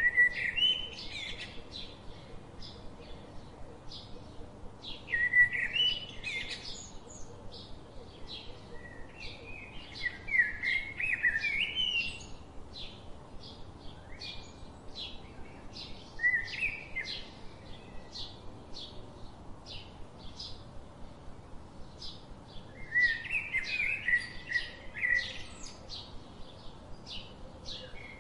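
Birdsong: a bird repeating a short, high chirp about twice a second, with louder warbling phrases breaking in every few seconds.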